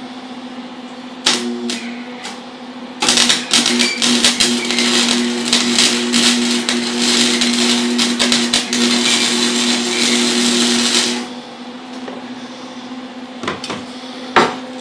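Electric welding arc crackling and sizzling as a pinhole on a turbo exhaust flange is welded shut: a short blip about a second in, then a continuous bead of about eight seconds that cuts off suddenly. A steady hum from the welding machine runs underneath.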